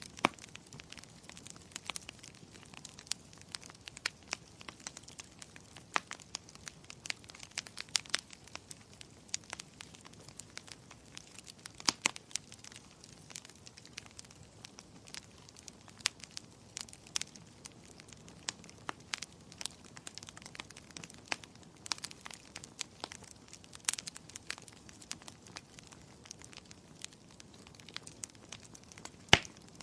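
Wood fire burning in a fireplace, with irregular sharp crackles and pops over a low steady hiss.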